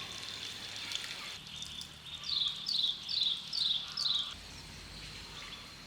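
A bird calling a quick, even series of five short, high, falling notes, over steady countryside background noise.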